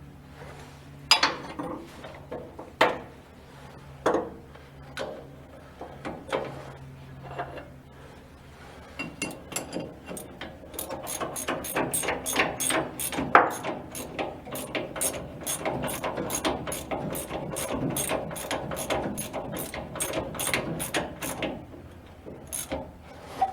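Ratchet wrench clicking as a bolt is turned. A few separate clicks and knocks come first, then from about halfway a long run of quick, even ratchet clicks at about three a second, which stops shortly before the end.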